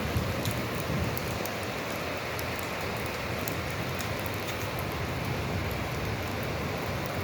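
Steady rainfall: an even rushing hiss, with scattered sharp ticks of individual drops striking close by.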